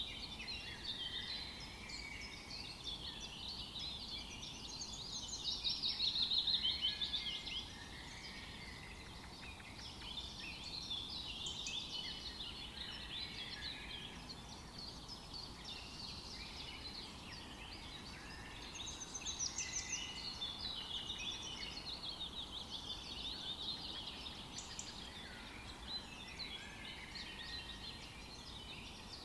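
Several birds singing and chirping at once in overlapping calls and trills. A louder rapid trill stands out a quarter of the way in.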